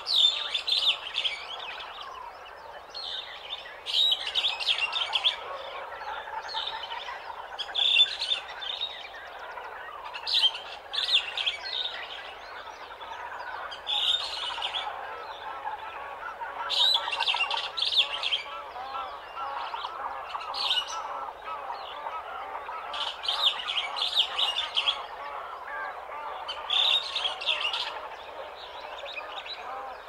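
A morning chorus of many birds in an African jungle. A loud, high song phrase comes back about every three to four seconds over a steady mix of lower chirps and calls.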